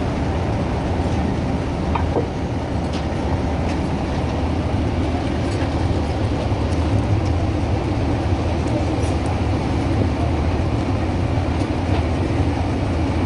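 Fishing boat's engine running with a steady low drone, with a few faint clicks over it.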